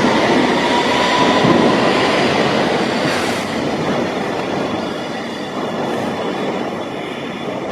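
London Underground District line S7 stock train pulling out of the station: a steady rumble of wheels on rails and running gear, with a faint rising whine in the first couple of seconds, slowly fading as it draws away.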